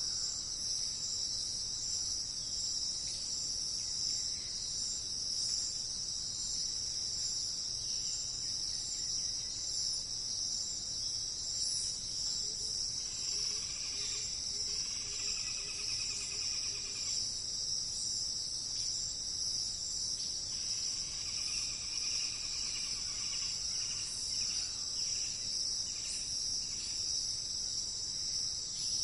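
Steady, high-pitched chorus of insects, cricket-like, unbroken throughout. Faint bird calls rise over it around the middle and again about three-quarters in.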